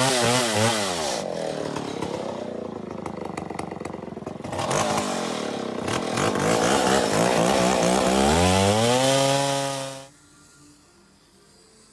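Stihl Contra Lightning two-stroke chainsaw engine, enlarged to 137 cc, revving with a wavering pitch, dropping back to lower revs, then revving up to a high steady speed and cutting off suddenly about ten seconds in.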